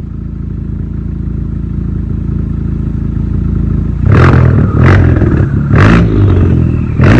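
Honda Civic Type R FK8's turbocharged 2.0-litre four-cylinder through a Tomei Type D exhaust and catless downpipe, heard from inside the cabin. The engine drone builds steadily, then about four seconds in it turns much louder and choppier, with several sharp bursts. The owner calls it as loud as, or louder than, his previous AWE exhaust.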